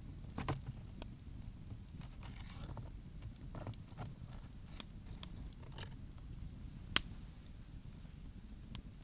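Wood campfire crackling, with scattered small pops and clicks and one sharp loud pop about seven seconds in.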